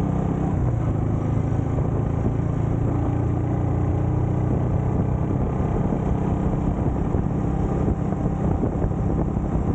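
Motorcycle engine running steadily, its pitch holding nearly level with no clear revs.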